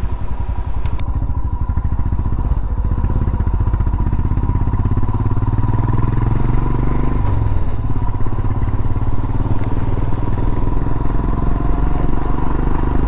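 Royal Enfield Himalayan's single-cylinder engine running steadily while the motorcycle is ridden along the road, heard from the rider's position.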